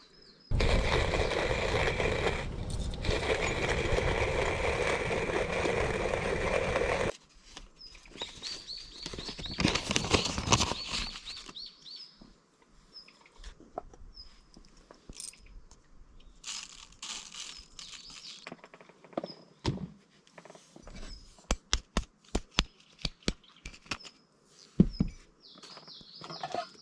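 A loud, steady rushing noise starts abruptly and cuts off about seven seconds in. After that a bird chirps over and over in short high calls, with a run of light clicks and knocks near the end.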